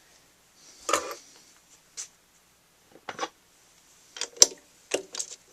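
Small machined metal parts being handled and fitted together: a scattering of short clicks and light knocks at irregular intervals.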